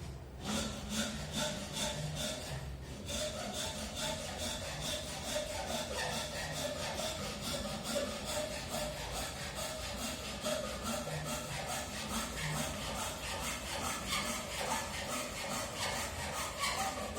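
Steady rhythmic scraping strokes, several a second, of the kind made by hand-working wood.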